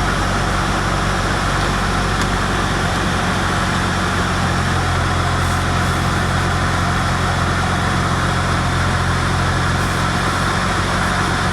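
Steady rush of a car's HVAC blower fan, with a low steady hum underneath.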